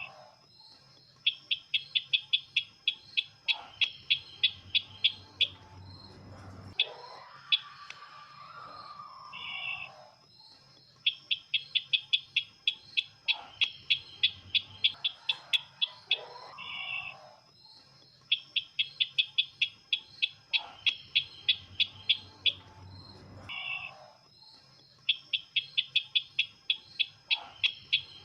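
Looped recording of the sisintar ladang bird's call used as a lure: a run of sharp, evenly spaced notes at about three a second lasting some four seconds, framed by short harsher notes. The phrase repeats four times, about every seven seconds.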